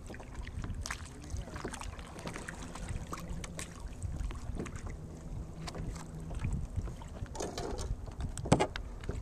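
Kayak paddling: irregular small splashes, drips and knocks of the paddle, over a low rumble of wind on the microphone, with one louder knock or splash near the end.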